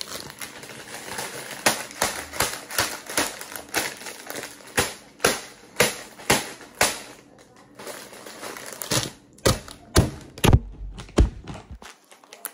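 Close-up crunching of crisp fried food being chewed, sharp crunches about twice a second over a crackly background, with a short lull a little after the middle and a run of loud crunches near the end.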